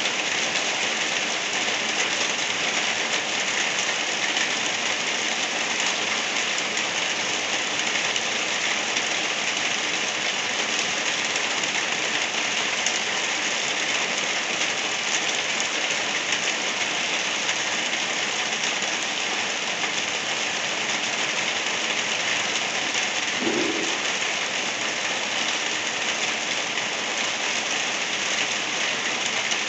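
Steady rain falling, an even, unbroken hiss with no pauses.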